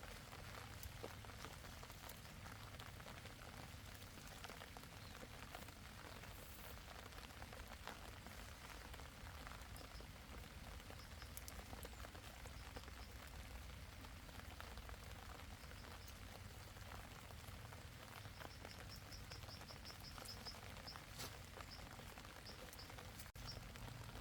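Light rain pattering, with a run of faint high chirps a little past the middle.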